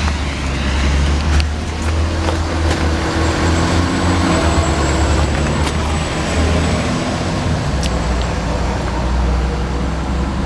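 Ford F-550's 6.7 L Power Stroke V8 turbo-diesel idling steadily with a deep, even hum, with a few light clicks and knocks over it.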